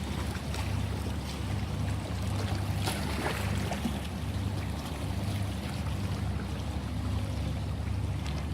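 Ocean waves washing in, a steady rush of surf over a deep rumble, with a brief splash about three seconds in.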